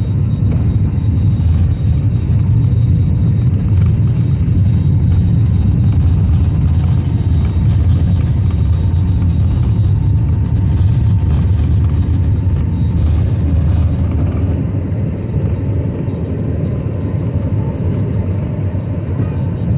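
Airbus A320 taking off, heard from inside the cabin: a loud, steady low rumble of the jet engines at takeoff power and the wheels on the runway, with a faint steady whine above it. The rumble eases slightly in the last few seconds.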